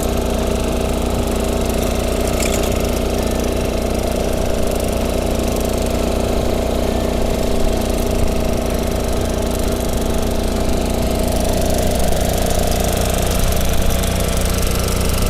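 Small engine of a walk-behind tiller running steadily at a constant speed.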